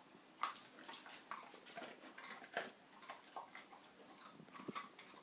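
A dog crunching and chewing a hard baked carob dog biscuit: irregular crisp crunches, about two or three a second.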